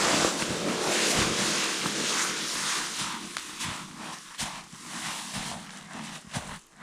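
A rushing hiss that fades away over the first few seconds, giving way to irregular crunching steps in snow.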